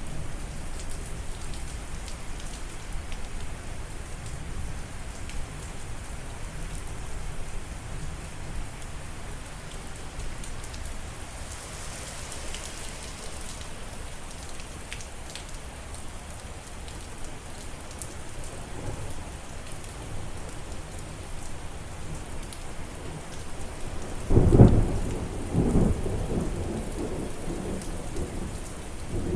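Steady rain falling, with a loud clap and rumble of thunder about 24 seconds in that lasts a couple of seconds.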